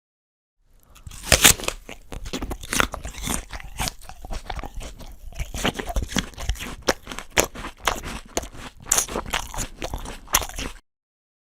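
A person biting into a crisp apple and chewing it, with wet, crunchy crackling; the loudest crunch comes with the bite about a second and a half in, and the chewing stops shortly before the end.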